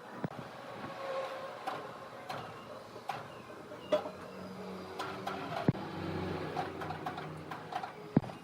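Woodworking machinery running with a steady hum, broken by about eight sharp knocks and clacks at irregular intervals.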